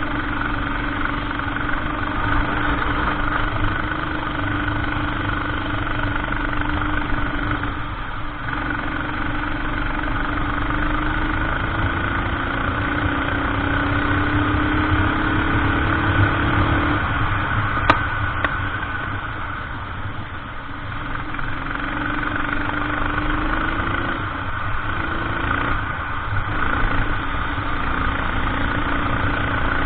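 Racing kart engine running at race pace, its revs climbing and falling with the track; a long climb in pitch over several seconds is cut off by a sudden drop past halfway, as the kart slows for a corner. A single sharp click sounds just after.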